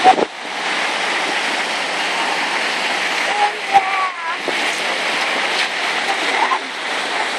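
Swollen Bow River in flood, its water rushing steadily.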